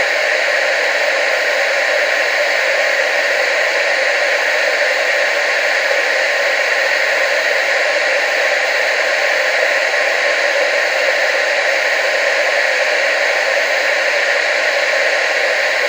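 Television static: a steady, unbroken hiss with no bass, strongest in the upper middle range.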